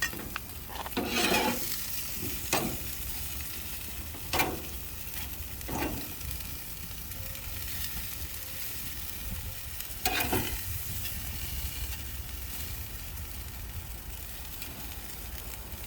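Chicken wings and fish sizzling on a grill, with a handful of short scraping and handling noises from working the food.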